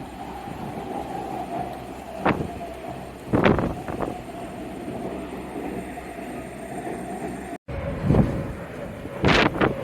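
Strong wind buffeting the microphone, with a low rumble and several sharp thumps, over a steady whine of jet aircraft engines. The audio drops out for an instant about three quarters of the way through.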